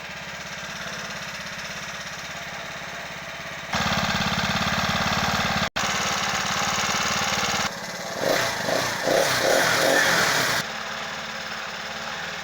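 Motorized bicycle's small engine running, steady at first and then louder from about four seconds in. For a few seconds past the middle it rises and falls unevenly, then settles back lower near the end.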